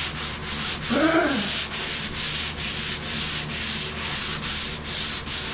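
Sandpaper rubbed back and forth by hand over a car's body panel, about three to four strokes a second. This is hand sanding to show up low spots and flaws in the bodywork.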